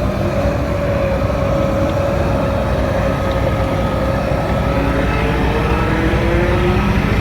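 Heavy diesel earthmoving machinery running steadily, a deep rumble with a whine that slowly falls in pitch and a second whine rising near the end.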